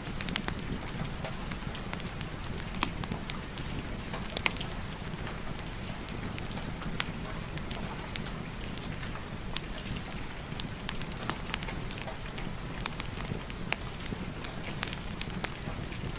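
Wood fire crackling in a fireplace, with sharp pops scattered irregularly through it, layered over steady rain and a low rumble.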